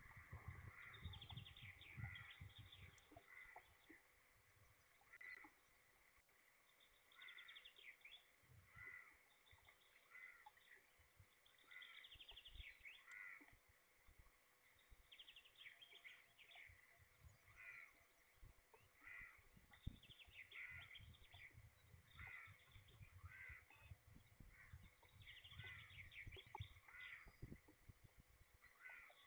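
A bird giving long runs of harsh, repeated calls, roughly one a second, broken by a few short pauses, with irregular low knocks underneath.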